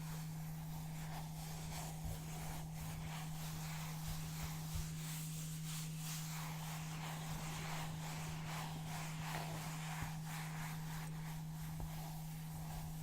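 Soft rustling and scraping of brown paper, with faint scattered ticks, over a steady low electrical hum.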